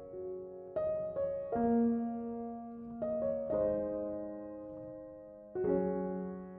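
Background piano music: soft chords struck every second or two, each ringing on and slowly fading.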